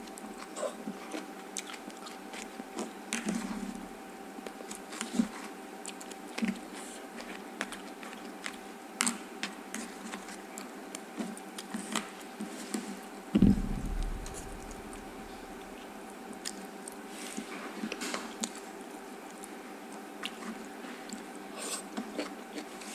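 Close-miked chewing and biting of stir-fried leafy greens, with scattered short crunches and small clicks over a faint steady hum. One louder thump comes a little past halfway through.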